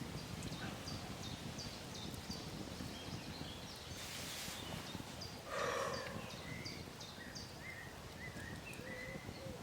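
Woodland birdsong: a small bird repeating short, high chirps at an even pace, with lower chirps mixed in. A brief rustle comes about four seconds in, and a short, louder pitched call or cry comes just past halfway.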